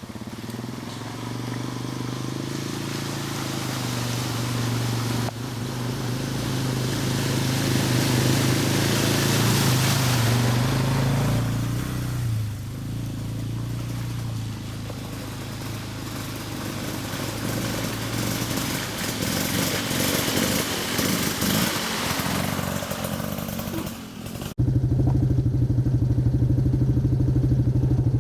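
ATV engines running as the quads ride through deep water on a flooded trail, with a rush of noise that swells and fades in the middle. Near the end the sound cuts abruptly to a louder, steady engine hum.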